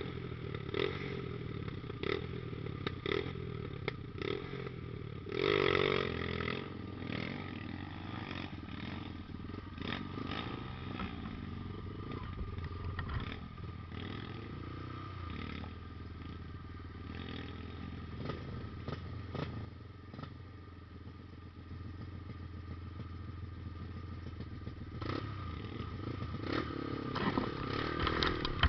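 Trail motorcycle engine running at low revs with scattered clattering knocks, rising briefly about five seconds in and again near the end.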